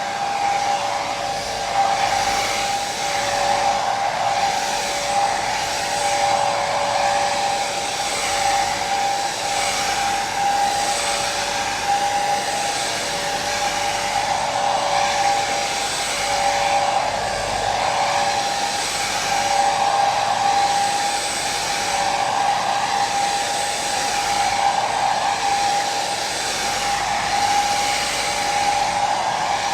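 Hair dryer running continuously, a steady rush of air over a motor whine that holds a constant pitch with slight slow swells, played as white noise for sleep.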